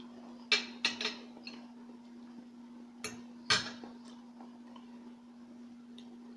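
Tableware clinking: a few short, sharp clicks of a utensil against a plate or container, three in the first second or so and two more about three seconds in.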